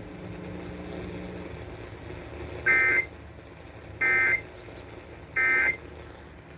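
Emergency Alert System end-of-message code: three short, identical bursts of screechy two-tone digital data, about a second and a half apart, which mark the end of the severe thunderstorm warning.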